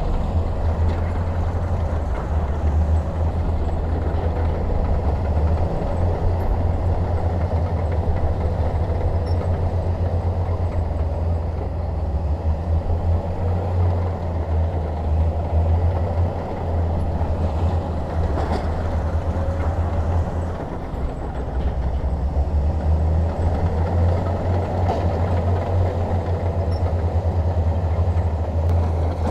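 Bulldozer's diesel engine running under load with a steady deep rumble while it pushes soil, its pitch swelling and easing briefly a couple of times.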